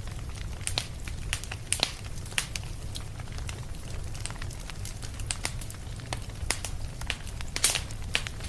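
Fireplace fire crackling: irregular sharp pops and snaps over a steady low rumble, with the loudest pop a little after seven seconds in.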